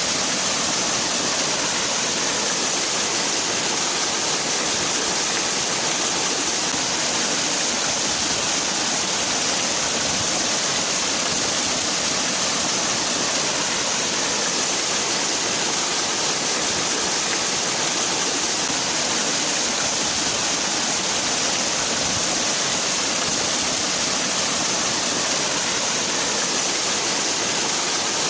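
Waterfall: falling water rushing steadily with an even hiss and no changes.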